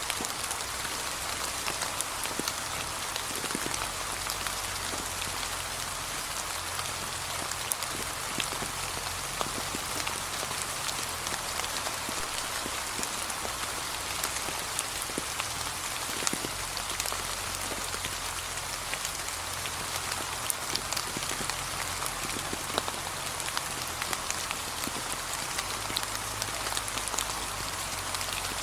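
Steady, gentle rain falling on a leaf-covered path, a continuous hiss with many small drop taps throughout.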